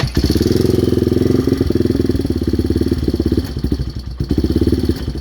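Yamaha Warrior 350's single-cylinder four-stroke engine, fitted with an FMF exhaust, catching on a cold start and running with a fast even pulse. It falters briefly about three and a half seconds in, then picks up again: a cold engine that doesn't want to idle yet.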